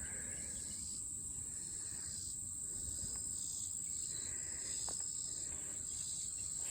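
Steady high-pitched chorus of field insects such as crickets, over a low rumble, with one brief click about five seconds in.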